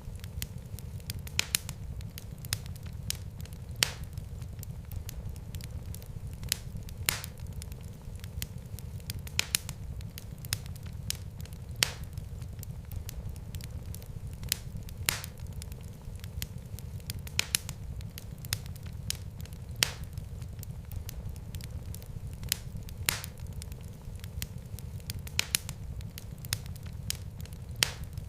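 Wood fire crackling: a steady low rumble of flames with irregular sharp pops and snaps, several every second.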